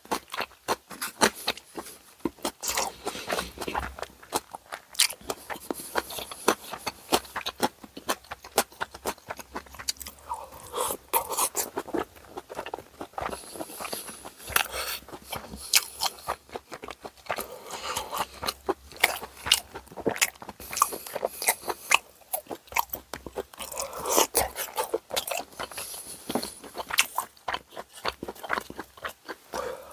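Close-miked mukbang eating sounds of bossam, boiled pork: a steady run of crisp crunching bites and wet chewing, with irregular clicks and crackles throughout.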